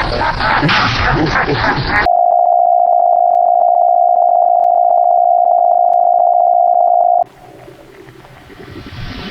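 A loud, steady electronic beep tone at a single pitch, starting about two seconds in, held for about five seconds and cutting off suddenly. It is preceded by a dense mix of music and voices.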